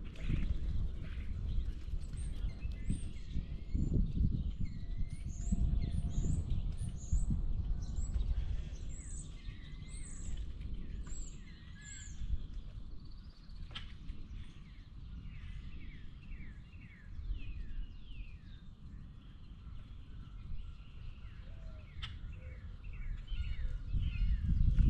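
Wild birds chirping and calling outdoors: many quick high chirps in the first half, then runs of short falling notes later on. An uneven low rumble lies under them throughout.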